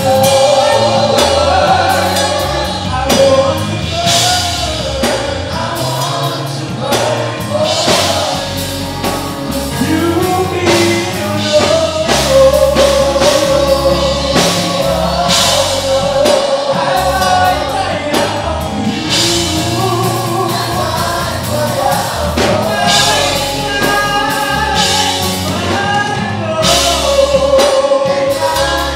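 Gospel praise-and-worship music: a group of voices singing together over a band with bass and drums.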